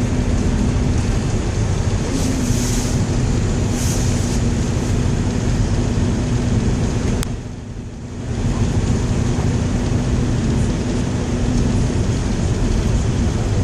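Road and engine noise inside a small truck's cab driving on snowy, icy streets: a steady drone with a low hum. There is a sharp click about halfway through, and the noise drops briefly for about a second after it.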